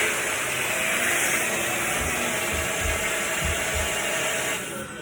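Vacuum cleaner running with a loud airflow hiss over a steady motor hum and a few low bumps. Near the end the hiss cuts off and the motor's pitch starts falling as it is switched off and winds down.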